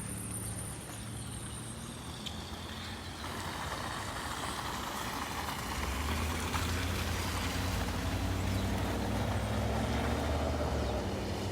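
A motor vehicle's engine running close by on the street, its low steady hum growing louder from about halfway through, with the hiss of traffic behind it.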